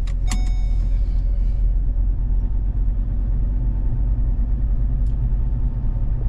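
Car travelling along a paved road, a steady low rumble of engine and tyre noise.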